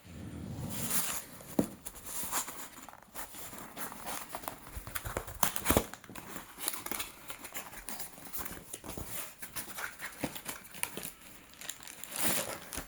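Packaging crinkling and tearing as a newly delivered bushcraft kit is unwrapped and handled, with irregular small clicks and knocks throughout.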